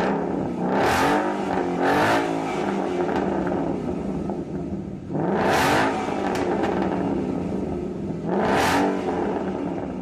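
Car engine revved through a loud performance exhaust: four sharp rev blips, about one, two, five and a half and eight and a half seconds in, over an uneven idle.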